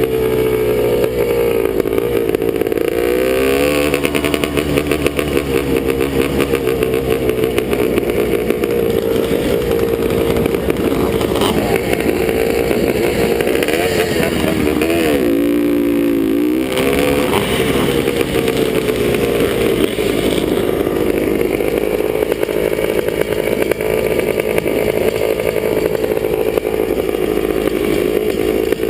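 Vintage Suzuki motocross bike's two-stroke engine running hard under race throttle, its pitch rising and falling through the gears. It drops off briefly about halfway through, then picks back up.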